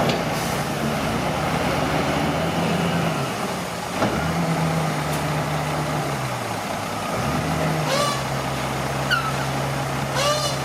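Komatsu D41P bulldozer's diesel engine running under work, its pitch dropping and picking up again a few times, then holding steady. Short squeaks come about eight seconds in and again near the end.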